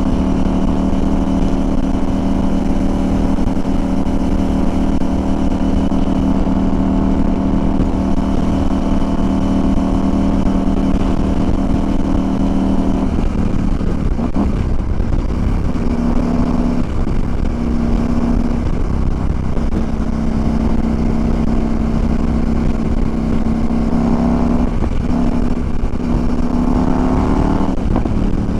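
CFMOTO Ibex 800 motorcycle's parallel-twin engine running at a steady cruise, under the rush of wind. About halfway through the engine note breaks up briefly, then settles again and wavers near the end.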